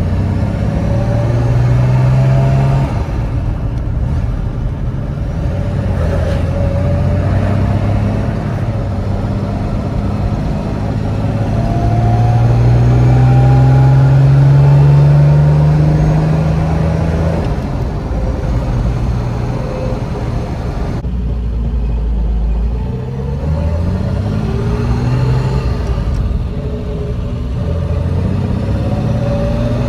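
Jaguar Mk 2's straight-six engine heard from inside the cabin while driving. Its pitch climbs as the car accelerates and drops back at each gear change, and it is loudest about halfway through, over steady road noise.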